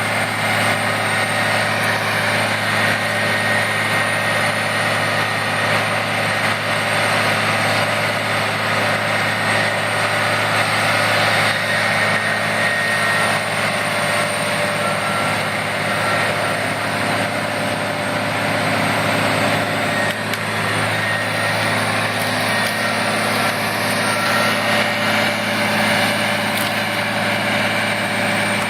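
A large engine runs steadily at a constant speed, with a thin high whine over it and no change in pitch.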